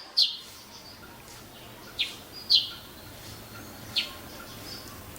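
A bird calling with short, sharp, downward-sweeping notes, repeated about four times at irregular intervals, over a faint steady background hiss.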